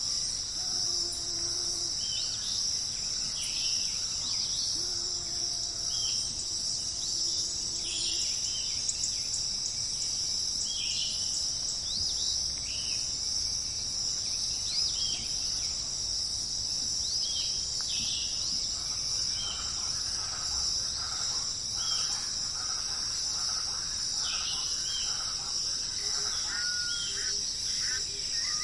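Outdoor nature ambience: a steady high-pitched chirring like crickets, with short bird calls every second or two over it. Two low held calls sound in the first eight seconds, and softer bird chatter joins in the second half.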